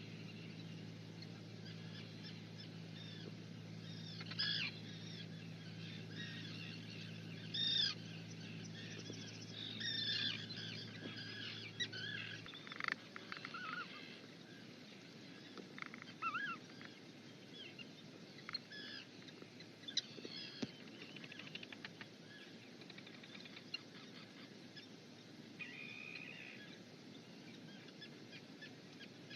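Birds calling in short chirps and squeaky notes, with the louder calls clustered in the first half. A low steady hum underneath cuts off suddenly about halfway through.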